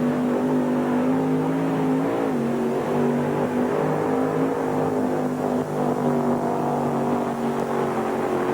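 Supercharged engine of a mini modified pulling tractor running flat out under load during a pull, holding a high, steady pitch with a brief wobble about two seconds in.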